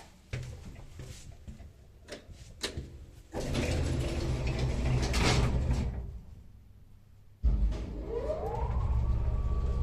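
Old Soviet passenger lift (1985 MLZ) at work. First come clicks of relays and door mechanism, then the sliding door drive running for a couple of seconds. About seven seconds in, the AS2-72 hoist motor starts with a sudden thump and a whine rising in pitch that settles into a steady hum as the car begins to move.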